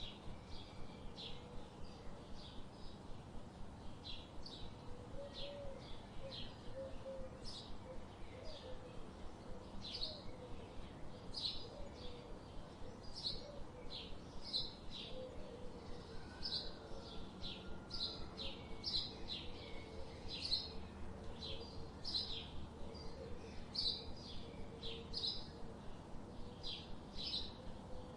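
Songbirds chirping: a continuous run of short, high chirps, about two a second, with a fainter, lower warbling call underneath over a soft background hiss.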